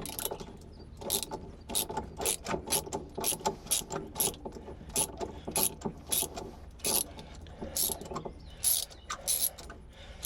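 Hand socket ratchet clicking in short, irregular strokes while a threaded plug on the RV generator is worked loose.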